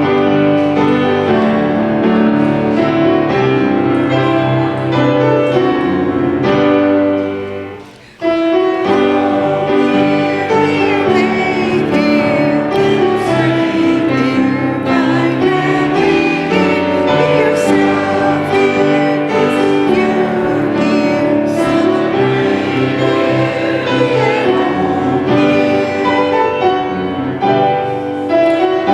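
Congregation singing a short hymn, the introit, with piano accompaniment. The music breaks off briefly about a third of the way through, then carries on.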